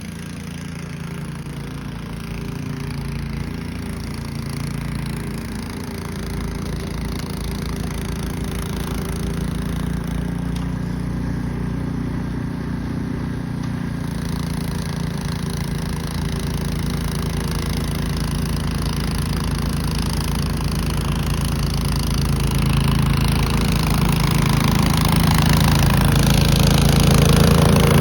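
Gasoline snowblower engine running steadily, getting gradually louder as it comes closer.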